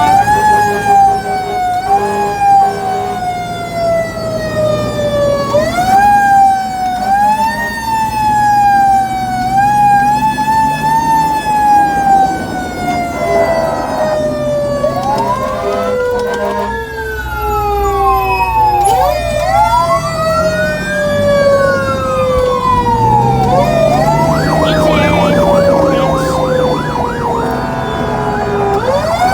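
Fire engine siren sounding as the engine responds: a siren pitch that falls slowly and is pushed back up again and again, joined by a second siren wailing up and down and then warbling quickly near the end, over a low rumble.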